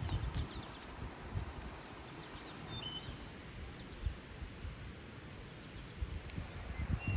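Small birds chirping and whistling in short calls, over a low, gusty rumble of wind on the microphone.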